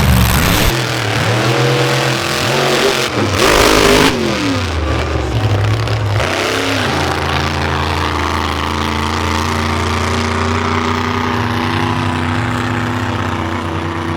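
Monster truck engine revving up and down, with a loud burst of engine noise about three to four seconds in, then holding a steady note for the second half.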